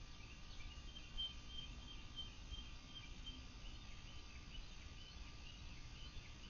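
Faint bird chirps over a low steady outdoor rumble, with a run of evenly repeated high notes, a few a second, starting about a second in.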